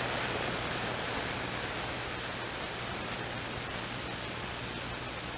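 CB radio static: an even, steady hiss from the receiver between transmissions, with a faint low hum underneath.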